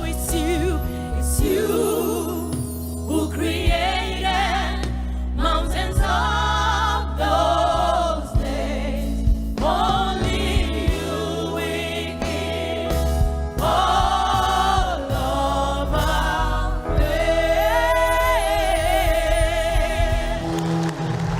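Gospel worship song: a choir singing with instrumental backing and a steady bass.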